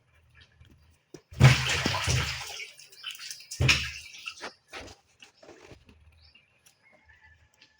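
Water poured or splashed in the kitchen: one longer splash about a second and a half in and a shorter one about two seconds later, then small clinks and handling noises.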